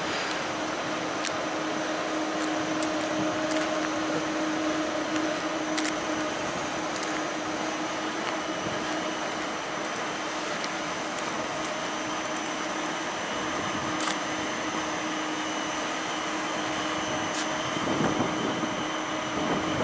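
ICE 3 high-speed train standing at the platform with its onboard cooling fans and electrical equipment running: a steady whirring hiss with a low held hum.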